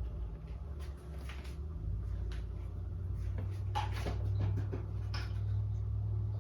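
Scattered light clicks and knocks of small objects being handled, busiest about four seconds in, over a steady low hum.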